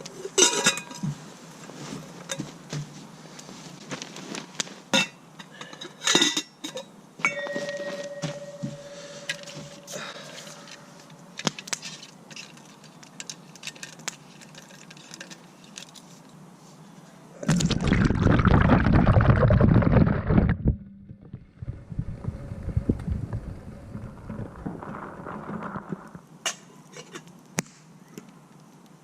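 Camp gear being handled: scattered clicks, clinks and knocks, with a loud rushing noise for about three seconds a little past halfway.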